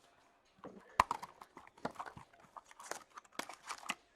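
Trading card packs and cards being handled on a table: a sharp tap about a second in, then a run of irregular clicks, ticks and light rustles as cards are pulled and flicked through.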